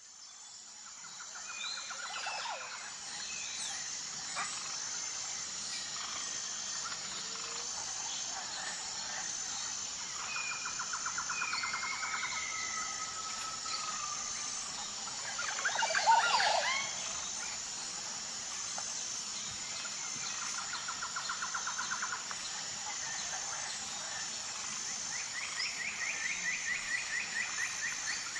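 Outdoor nature ambience with birds calling over a steady high-pitched pulsing background. Several rapid trills and short whistles repeat at intervals, with a louder tangle of calls about 16 seconds in. The ambience fades in at the start.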